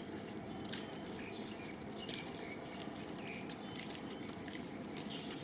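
Scattered short clicks and a few brief high squeaks from animals, over a steady background hiss.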